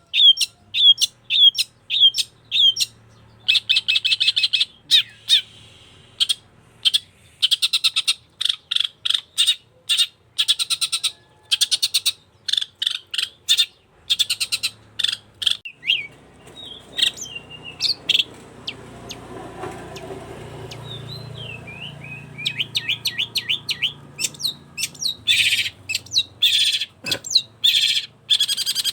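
Long-tailed shrike (cendet) singing busily: runs of rapid, sharp, high chirps mixed with harsh scratchy notes. It goes quieter for several seconds in the middle, with only a few gliding notes, then starts up densely again.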